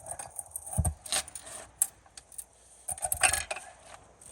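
Steel pry bar clinking and knocking against metal as the cocked drive shaft at the gimbal bearing is nudged straight. Irregular metallic clinks, a dull thump a little under a second in, and a louder clatter just after three seconds.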